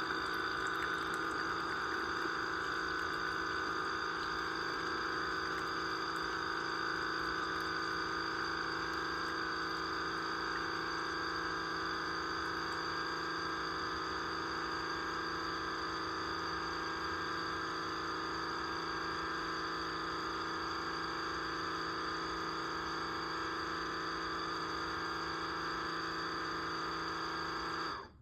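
Mainstays single-serve coffee maker brewing ground coffee: its pump runs steadily, pushing water through, then cuts off suddenly near the end as the brew finishes.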